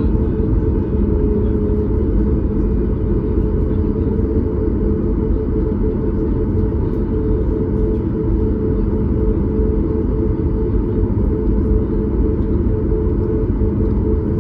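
Steady cabin rumble of a Boeing 737 MAX 8 with its CFM LEAP-1B engines running at steady power, heard inside the cabin just behind the wing, with a constant engine hum over the airflow roar.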